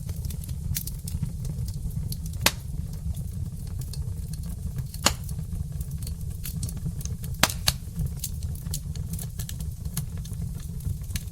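Burning logs in a fireplace crackling: many small sharp pops, with a few louder ones every couple of seconds, over a steady low rumble of the fire.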